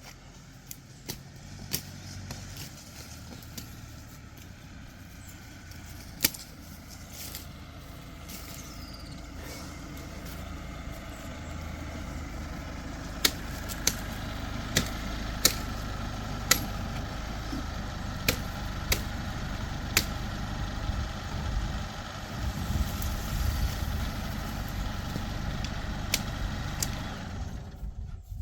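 Vehicle driving with a steady low rumble that grows louder about halfway through, with sharp knocks scattered throughout.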